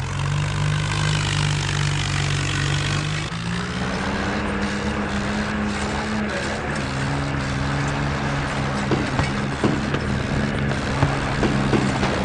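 Swaraj tractor's diesel engine running steadily, its pitch stepping up about three seconds in, with a few sharp knocks near the end.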